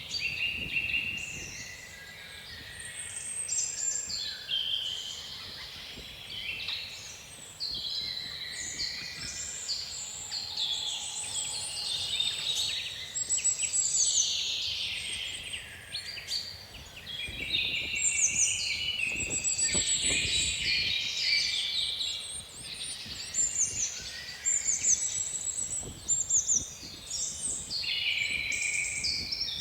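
A chorus of several songbirds singing at once, dense overlapping chirps and rapid runs of repeated high notes, over a faint low rush of wind.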